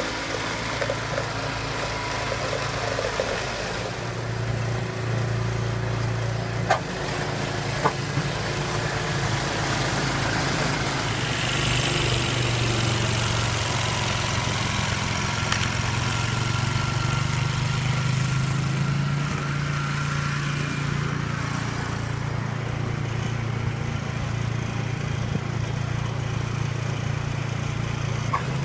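A steady low motor or engine hum that runs without a break, with a couple of short clicks about seven and eight seconds in.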